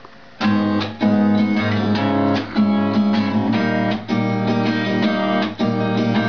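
Acoustic guitar strummed in a steady rhythm, chords starting about half a second in: the instrumental introduction to a song.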